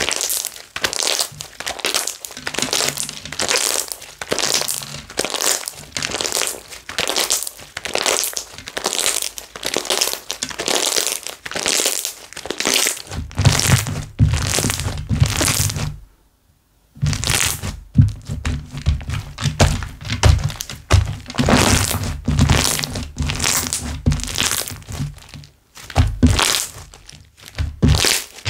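Slime being squeezed, stretched and pressed in the hands, with rapid crackling and popping of the air bubbles trapped in it. The handling stops for about a second, roughly sixteen seconds in, then resumes.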